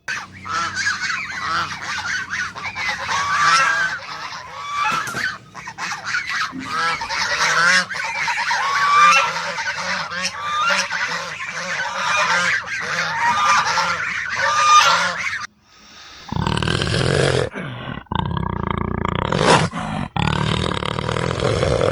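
A flock of birds calling over one another in many short calls that bend in pitch. About fifteen seconds in, the sound cuts abruptly to a different, noisier recording with more low-pitched sound.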